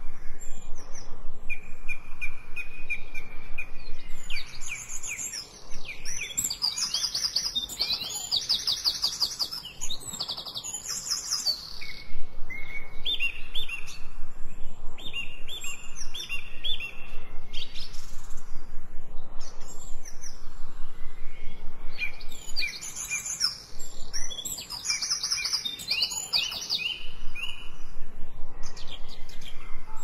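Songbirds singing, several overlapping songs with quick trills and runs of repeated chirping notes.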